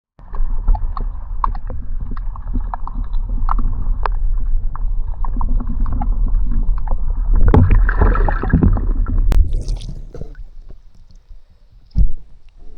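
Muffled water sloshing and gurgling close to the microphone with many small clicks, louder and brighter splashing about halfway through, and a single thump near the end.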